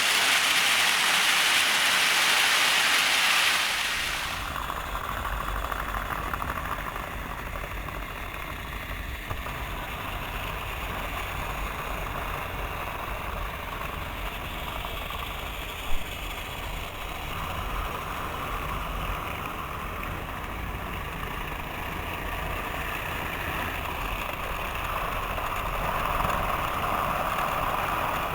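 Model trains running on their track: a steady rumble of motors and wheels. A loud hiss fills the first few seconds, and a single sharp click comes about halfway through.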